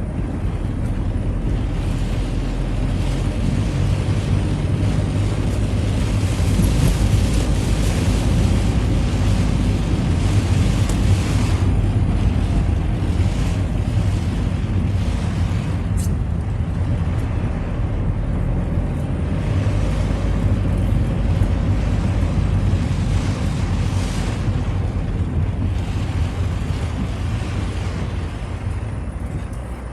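Citroën Xsara driving on a rain-wet road: a steady engine drone under the hiss of tyres on wet tarmac, the hiss swelling twice and easing off near the end. A single sharp click about halfway through.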